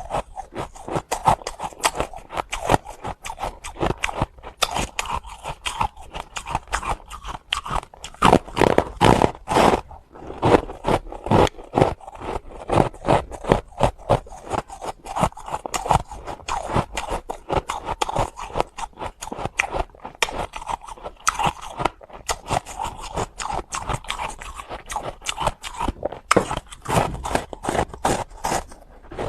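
Close-miked crunching of hard ice being chewed: a dense, irregular run of sharp cracks and grinding crunches, several a second, with no pause.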